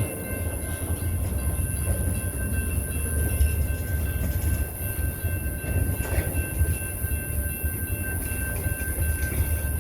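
BNSF train rolling slowly past the crossing, a steady low rumble with no distinct horn blasts.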